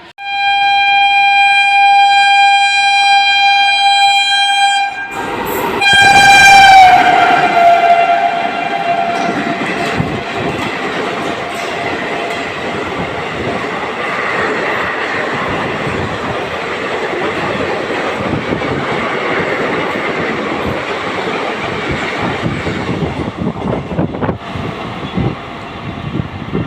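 An Indian Railways express locomotive sounds a long horn blast for about five seconds, then blasts again as it reaches the microphone, the pitch dropping as it passes. A high-speed train of ICF coaches then rushes by, its wheels clattering rhythmically over the rail joints.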